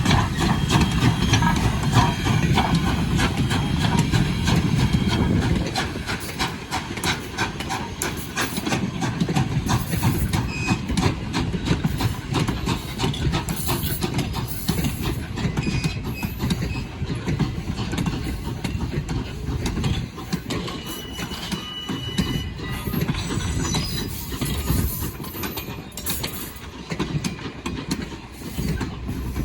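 A train rolling past on the rails, its wheels clicking steadily over the rail joints, heaviest and loudest for the first five seconds, with a few short high wheel squeals.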